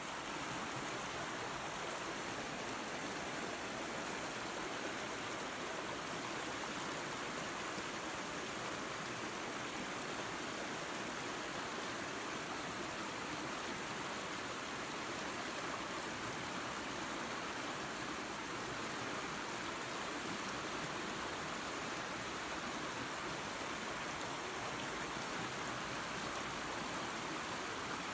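Small waterfall and creek water running, a steady, even rush with no breaks.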